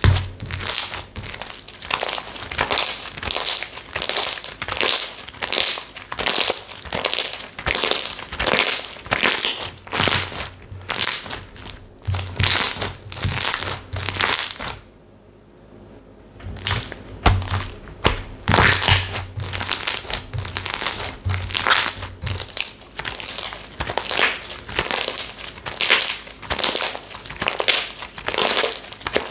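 Textured slime squeezed and pressed by hand, crackling and crunching in quick repeated squishes, about one or two a second, with a brief pause about halfway through.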